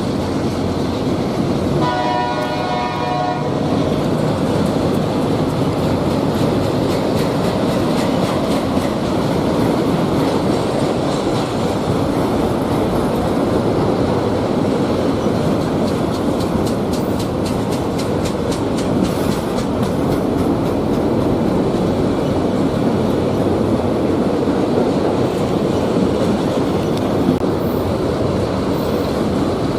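CSX freight train of autorack cars rolling past, with a steady rumble of wheels on rail and rhythmic clickety-clack. A short horn-like tone sounds about two seconds in.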